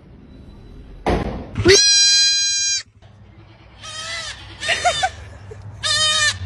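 An animal bleating: a long, steady call about two seconds in, then three shorter, wavering calls.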